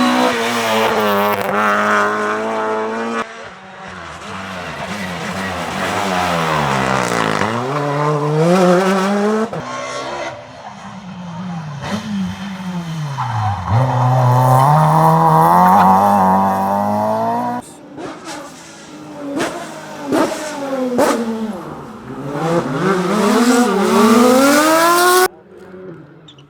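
Rally cars on a special stage, engines revving hard, their pitch sweeping up and down repeatedly as they accelerate and slow. It comes as several separate passes, each cut off abruptly.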